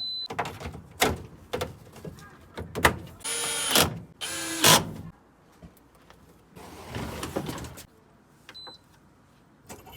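Casing panels of a Whirlpool washing machine being knocked and slid back into place during reassembly: scattered knocks, then two harsh scraping slides about three to five seconds in. Short high beeps from the machine's control panel sound at the start and near the end.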